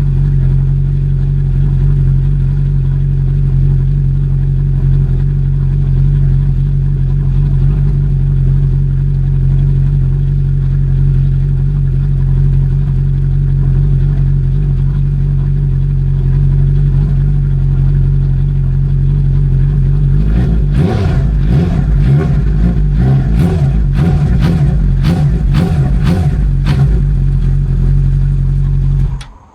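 An engine or motor running steadily with a low hum. About twenty seconds in it turns uneven, with a rapid clatter of knocks, and it stops abruptly near the end.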